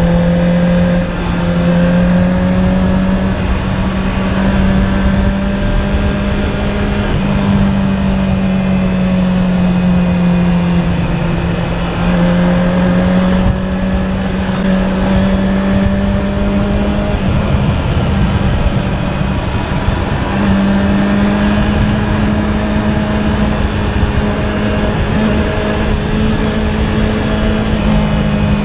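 Honda CB650R inline-four with an Akrapovic exhaust, running under way at a fairly steady engine speed. Its pitch steps and dips briefly every few seconds, over a steady rushing noise.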